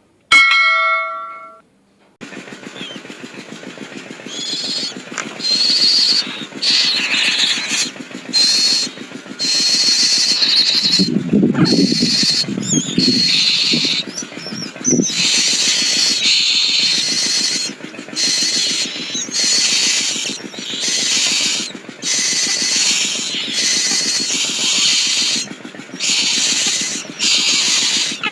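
Nias hill myna giving a long series of loud, high calls, each lasting about a second, with short gaps between them.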